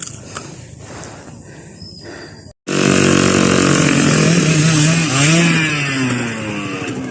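Trail motorcycle engine: a low idle with a few clicks, then after a sudden cut about two and a half seconds in, the engine is revved hard, its pitch rising and falling.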